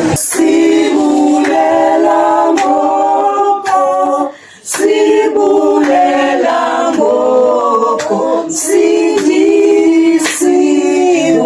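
A group of voices singing unaccompanied, in phrases of long held notes, with a short break about four seconds in.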